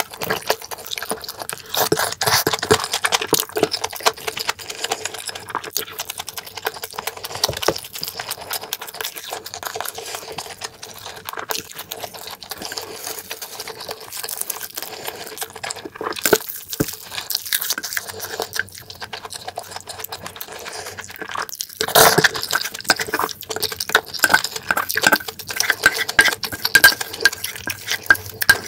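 Close-miked eating sounds: wet chewing and smacking of kimchi stew and fried sausage, irregular and crackly. From a little past the middle, louder clicks come with them, as utensils knock the aluminium pot and stew is ladled into a bowl.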